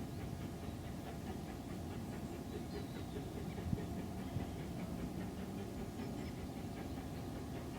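Steam train running along the line: a steady low rumble with fine rapid clatter, and a single sharp knock about halfway through.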